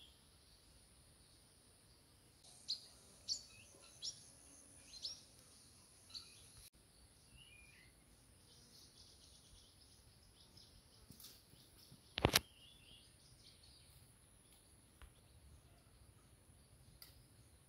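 Birds chirping: a quick run of short chirps a few seconds in, then scattered faint calls, over a steady high hiss. One sharp click, the loudest sound, about twelve seconds in.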